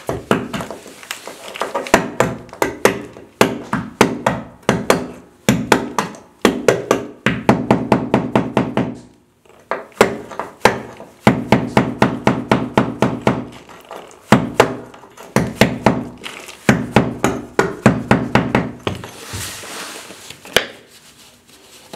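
Hammer driving a small chisel to chip old thin-set mortar off a wall, in quick runs of blows with short pauses between them, each blow ringing briefly.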